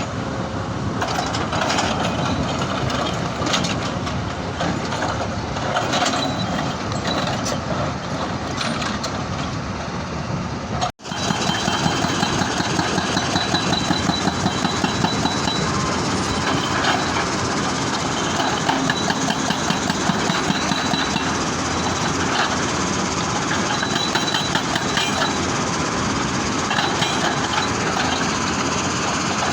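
Excavator-mounted hydraulic rock breaker hammering stone over the excavator's running diesel engine. The sound cuts out for a moment about eleven seconds in, then resumes with rapid, rhythmic hammer blows.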